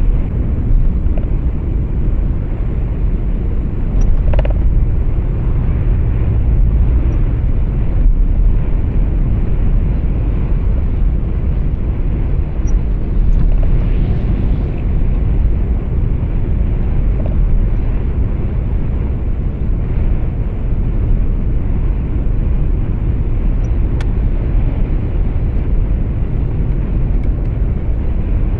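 Steady low rumble of engine and road noise heard from inside a moving truck's cab.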